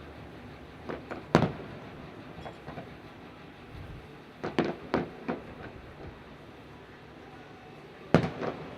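Fireworks bursting in the sky: scattered sharp bangs over a steady background rumble, a loud one with a couple of smaller pops just before it, a quick cluster of four or five about halfway through, and another loud bang near the end.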